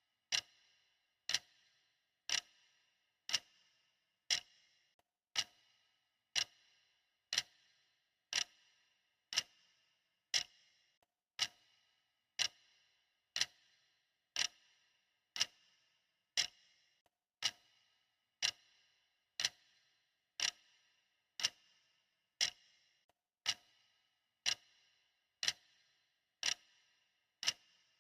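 Clock ticking steadily, about once a second, each tick a sharp click with a brief ringing tail.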